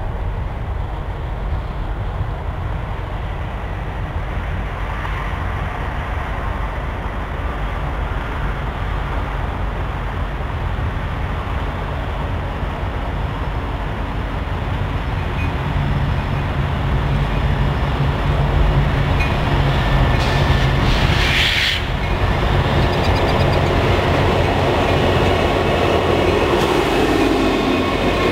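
Two EMD SD70 diesel locomotives with their two-stroke V16 engines approach at track speed leading a freight train. Their rumble grows steadily louder, and near the end the engines and the wheels on the rails pass close by.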